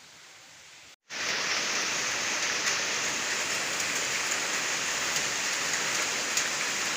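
Heavy rain falling steadily: a dense, loud hiss with scattered sharp drop ticks. It starts abruptly about a second in, after a moment of silence.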